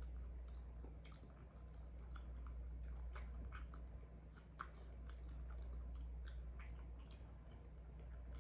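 A person chewing food with mouth closed: soft, scattered wet mouth clicks and smacks, over a steady low hum.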